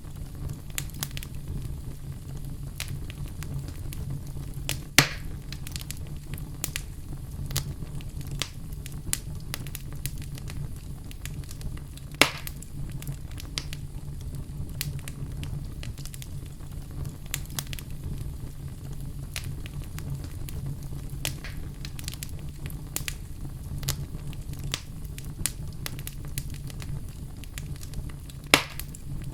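Wood fire in a fireplace crackling steadily over a low, even rumble, with many small snaps and three sharp, louder pops spread through the stretch.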